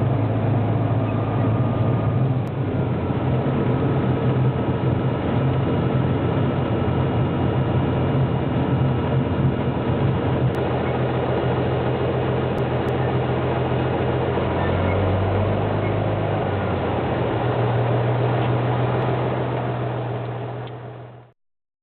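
Light propeller airplane's engine and propeller droning steadily, heard from inside the cabin. The note drops briefly about two-thirds of the way through, then comes back up, and the drone fades out near the end.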